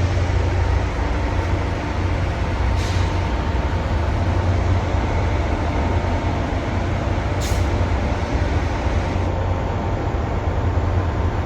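Steady low rumble of a train, with two faint clicks.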